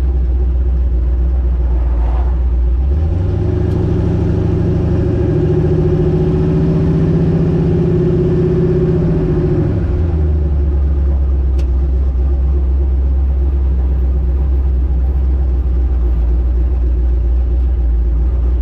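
Twin-turbo LS V8 in a Chevy S10 running steadily at low revs, then accelerating hard from about three seconds in, its pitch climbing for some seven seconds before it drops back to a steady low running note.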